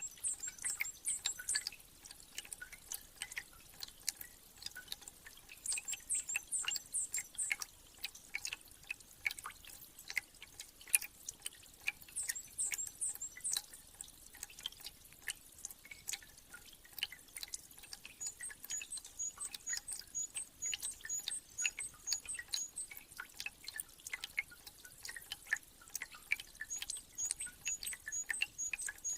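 Spring thaw meltwater dripping, many irregular drops landing one after another, with small birds chirping high-pitched in short bursts. In the last third a bird repeats a short high note rapidly, several times a second.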